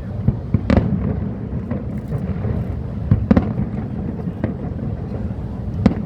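Aerial fireworks bursting: a continuous low rumble of booms, with sharper cracks about half a second in, twice a little past three seconds, and near the end.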